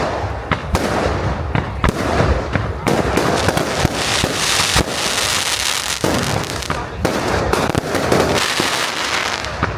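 Fireworks display going off: a rapid run of bangs and pops, with a spell of dense crackling hiss in the middle.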